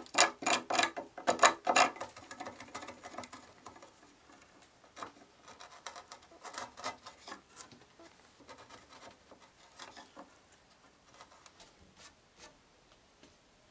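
Steel chisel working the waste out of a notch in beech: a quick run of sharp knocks and cracks for about the first two seconds as the waste breaks out, then quieter scraping and light clicks as the notch bottom is pared flat by hand.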